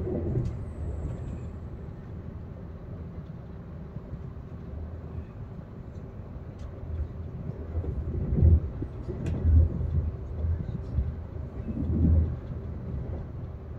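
Low rumble of an SBB train running through the station, with a faint steady hum and a few heavier low thumps in the second half.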